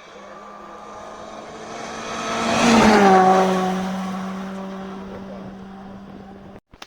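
A rally car approaching and passing at speed, engine held at a steady high note. The sound swells to its loudest about three seconds in, then drops in pitch as the car goes by and fades. It cuts off abruptly near the end.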